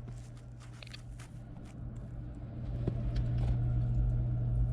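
A rake scraping and knocking through the burnt-down coals in the firebox of a Central Boiler E-Classic 1400 outdoor wood furnace. Scattered scrapes and clicks sit over a steady low hum, and a low rumble builds from about halfway through.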